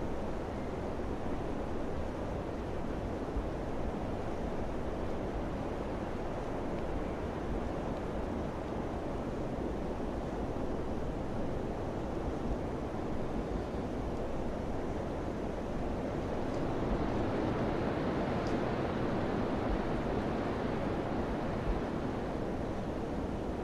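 Wind blowing steadily in gusts, a rushing noise that swells into a stronger gust a little past the middle and eases off again toward the end.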